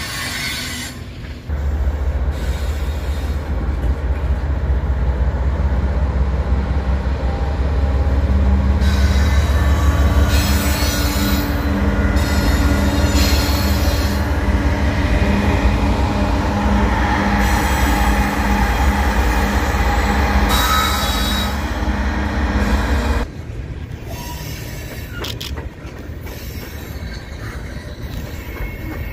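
Two GE ES44 diesel-electric locomotives pass close by as mid-train distributed-power units, their GEVO diesel engines running with a loud, deep, steady drone. Now and then a brief high wheel squeal rises over it. Near the end the engine sound drops away, leaving the quieter rolling of freight cars' wheels on the rails.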